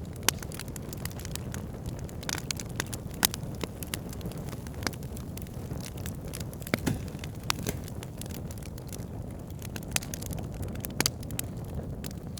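Wood campfire burning: a steady low rumble of the flames with irregular sharp crackles and pops from the burning logs.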